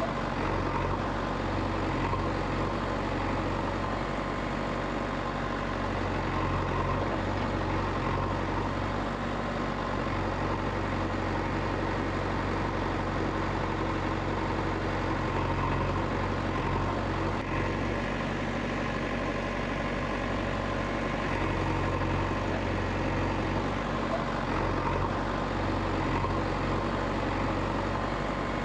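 A motor running steadily at an even pace, a low constant hum with no revving or change.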